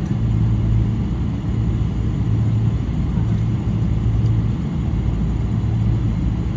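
Steady low rumble inside the cabin of a Boeing 777-300 with its Rolls-Royce Trent 800 engines running.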